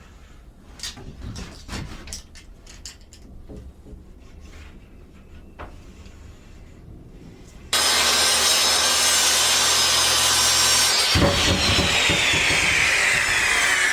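Light knocks and handling of wood, then a power saw starts abruptly about eight seconds in and cuts through wood. Some three seconds later the cut ends and the saw's whine falls in pitch as the blade spins down.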